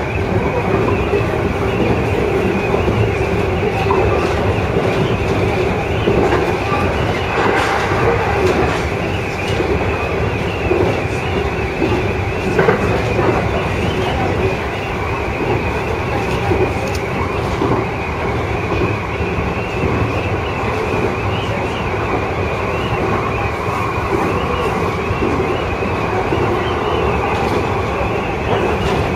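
JR East E231-series electric train running at speed, heard from inside the driver's cab: a steady rumble of wheels on the rails, with a few sharp clicks from the track.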